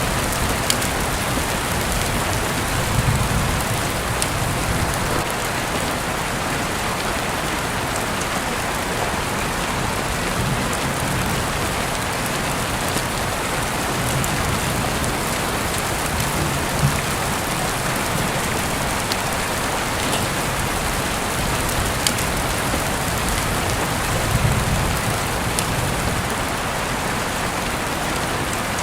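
Heavy rain falling steadily, a dense even hiss with scattered sharp drop ticks. Three times it swells briefly in the low end.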